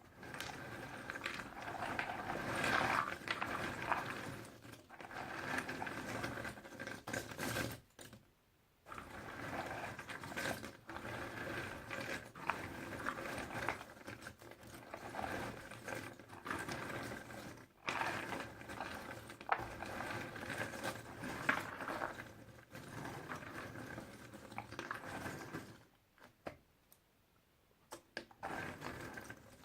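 Puzzle pieces being shuffled and rummaged by hand: a busy, continuous rattle and scrape of many small pieces, with a short pause about eight seconds in and a longer one near the end.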